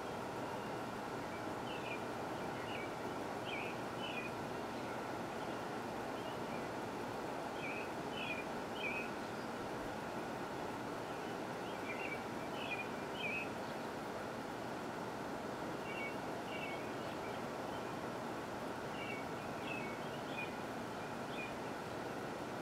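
A small bird chirping in short clusters of notes, repeating about every four seconds, over a steady outdoor hiss.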